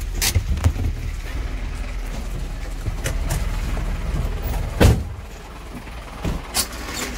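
Fire engine running with a steady low rumble, broken by scattered clicks and knocks, the loudest about five seconds in.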